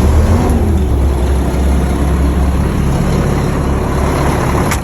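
Mack LE 600 garbage truck's diesel engine running just after a cold-weather restart, with its block heater plugged in. A brief rise and fall in engine pitch comes right at the start, then it runs at a steady idle.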